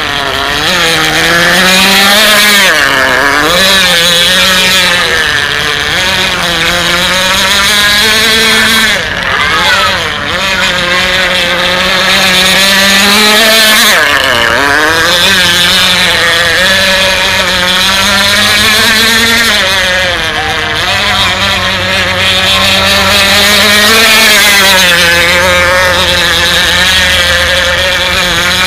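K&B 7.5 cc two-stroke glow outboard engine of a radio-controlled F1 racing boat running at high revs. Its pitch wavers constantly and dips sharply and briefly four times as the throttle comes off and back on.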